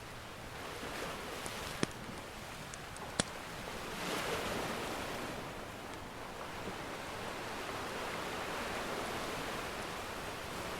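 Ocean surf washing in, swelling into a wave about four seconds in and building again later. Two sharp pops of a crackling wood fire come in the first few seconds.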